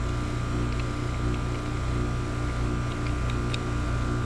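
A steady low mechanical hum with a couple of faint high tones held throughout, and a few faint small ticks over it.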